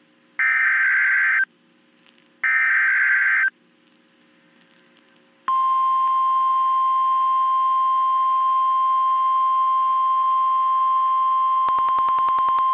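NOAA Weather Radio alert signalling: two one-second bursts of the harsh, buzzy SAME digital header, a second apart, then about five and a half seconds in the steady 1050 Hz Warning Alarm Tone comes on and holds, marking the start of a new warning broadcast. A few brief clicks sound over the tone near the end.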